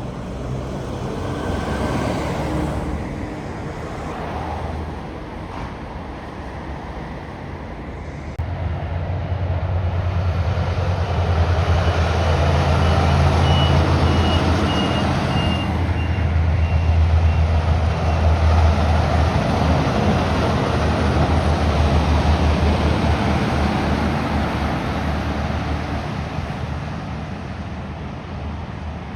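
Heavy semi-trailer truck's diesel engine droning past, stepping up in loudness about a third of the way in, holding strong, then fading near the end.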